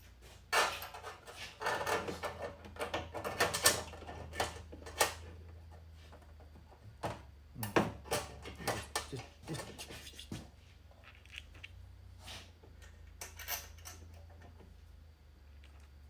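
Small metal hardware being handled and rummaged through: irregular clinks, clicks and knocks in clusters, busiest in the first few seconds and again around the middle, with a steady low hum underneath.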